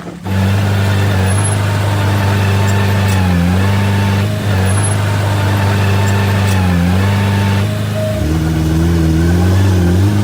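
Heavy diesel engine of a working earthmoving machine running steadily under load, dipping briefly in speed about three and a half and seven seconds in, with its note changing and wavering from about eight seconds on.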